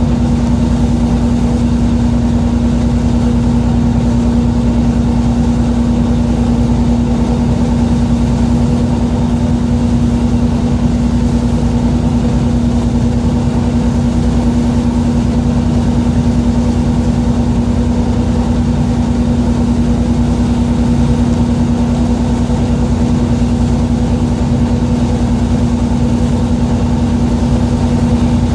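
Fishing boat's engine running steadily, a constant low drone with a strong unchanging hum.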